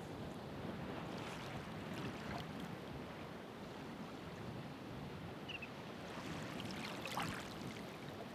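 Ocean waves washing ashore: a steady rushing wash with splashing surges, one around a second or two in and the loudest about seven seconds in.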